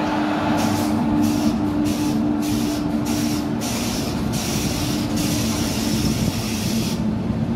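Trains running past each other on adjacent tracks, heard from an open coach window: a steady rumble of wheels and rushing air with a steady low hum underneath.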